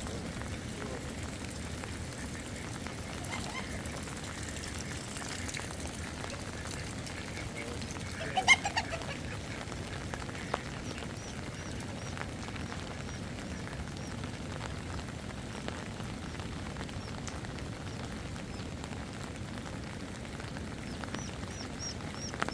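Steady rain with small birds chirping faintly and intermittently. A brief, louder call comes about eight seconds in.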